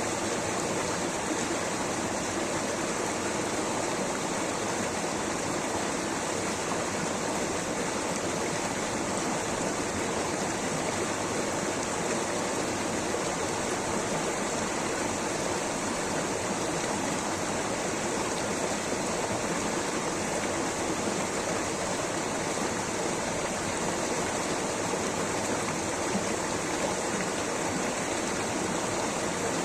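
Rushing water, a steady, unbroken noise with no change in level.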